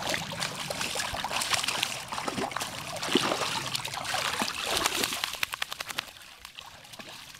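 Dog splashing about in a muddy puddle, with irregular wet sloshing and slapping. About five seconds in comes a quick run of small splashes, then it grows quieter.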